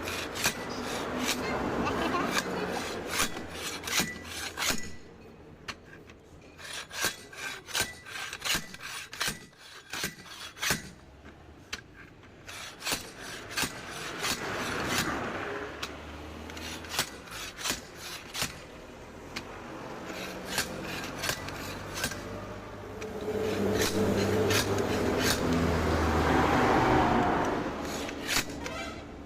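Hand-tool work on a truck tyre: many sharp metal clicks and knocks, with stretches of scraping and rubbing between them.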